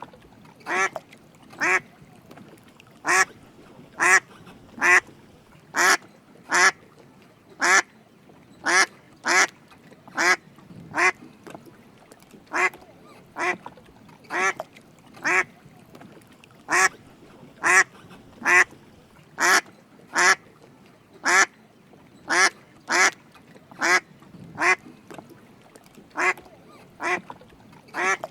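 Drake mallard quacking: short calls repeated at a fairly even pace, roughly one a second, sometimes two close together.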